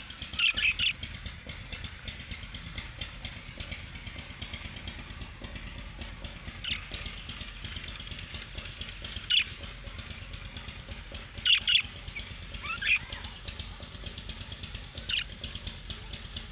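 Small pet parrots calling: about half a dozen loud, short, shrill calls, a couple of them sliding in pitch, over a steady background of faint chatter and ticking.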